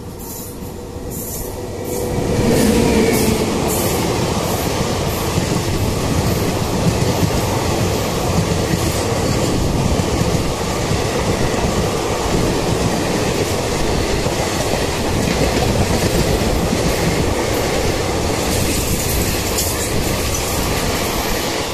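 Passenger train passing close alongside at speed on the adjacent track, heard from the open side of another moving train. A loud rush of wheels and coaches begins about two seconds in and holds steady, with the rattle of wheels clicking over rail joints.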